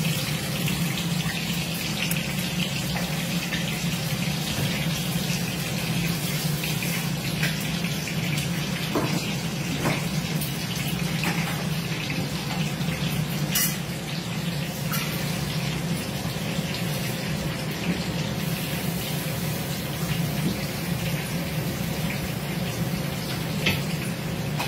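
Hot oil sizzling steadily in a kadai as stuffed brinjals are set into it one by one, with a few light clicks, over a steady low hum.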